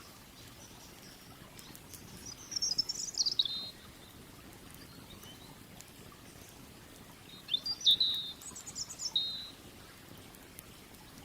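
A songbird singing two short warbling phrases, one about two seconds in and another near eight seconds. They sound over a steady low rush of river water.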